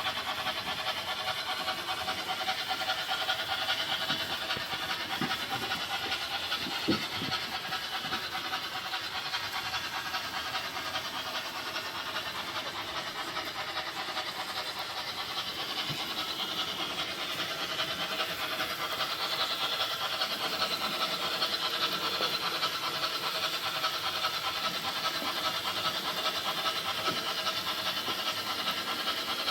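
H0-scale model train running on the layout: a steady whirring hiss of motor and wheels on track, with a few light clicks of wheels passing rail joints about five to seven seconds in.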